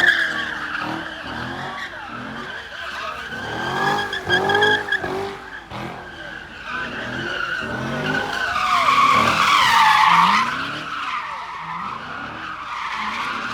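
A car sliding with its tyres screeching steadily while its engine revs up and down over and over, about twice a second. The screech swells loudest about nine to ten seconds in and falls in pitch.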